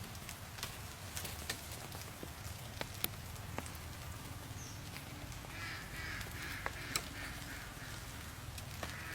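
Scattered sharp clicks and taps. About halfway through, a bird begins calling in a series of short, repeated calls.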